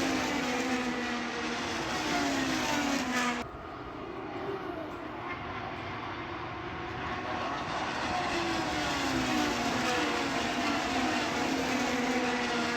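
Racing sprint car engines passing one after another, each engine note falling in pitch as the car goes by. The sound cuts abruptly a little over three seconds in, then more cars keep passing.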